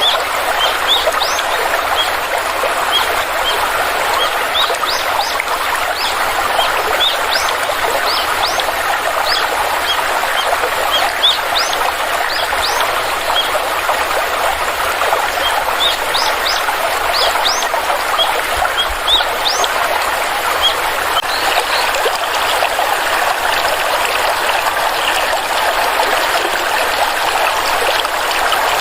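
Stream flowing steadily, with a small bird calling over it in quick runs of short, high, rising chirps through most of the stretch, growing sparse near the end.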